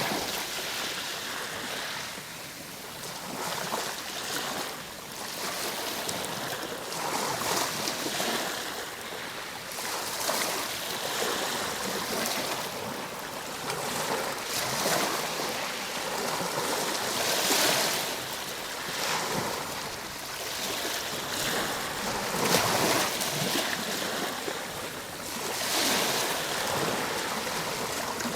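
Ocean waves breaking and washing on a shore, a steady surf hiss that swells and eases every few seconds.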